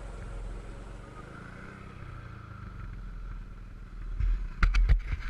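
A 125cc dirt bike engine running faintly and steadily, its pitch rising and falling a little in the middle. About four seconds in, a handful of loud sharp knocks.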